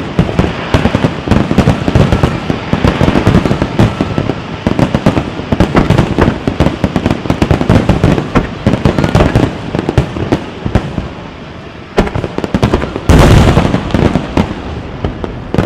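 A wide starmine fireworks barrage: many aerial shell bursts going off in quick, overlapping succession. It thins out and drops in loudness for a moment about three-quarters of the way through, then comes back with a heavy, loud volley near the end.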